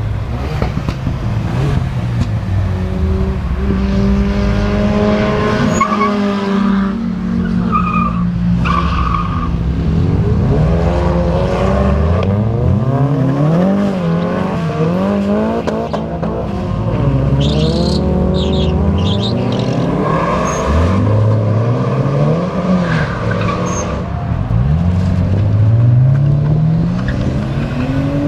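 Car engines revving and accelerating hard one after another, each engine's pitch climbing in repeated rising sweeps, with a brief high screech about two-thirds of the way in.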